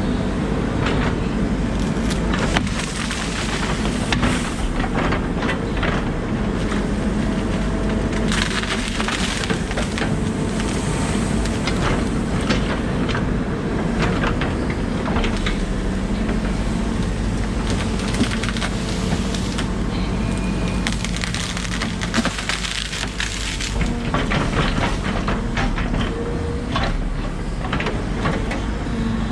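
Volvo 140 excavator's engine running steadily under load while trees are pushed over and broken, with repeated cracking and splintering of wood throughout.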